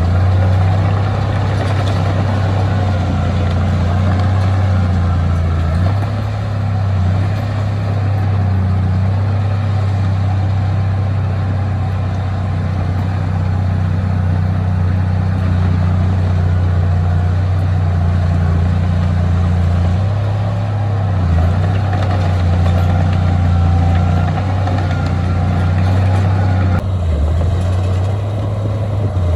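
Heavy diesel engine of earthmoving equipment running steadily with a low drone, its pitch shifting slightly a few times.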